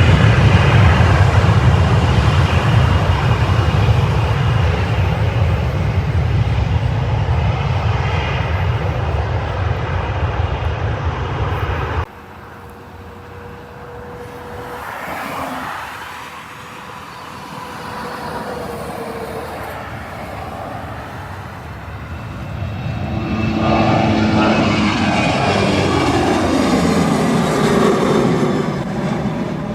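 Jet airliner engines at close range: a loud, steady low rumble that cuts off abruptly about twelve seconds in. A quieter jet then follows, its engine whine growing louder and falling in pitch as it passes, loudest near the end.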